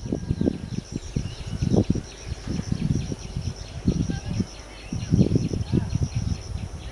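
Low, uneven rumbling of an old Indian Railways electric multiple unit train approaching along the track, under a steady high buzz of insects and scattered bird chirps.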